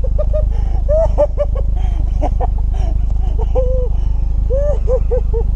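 High-pitched bursts of laughter: short rising-and-falling yelps in quick runs, with no words, over a steady low rumble.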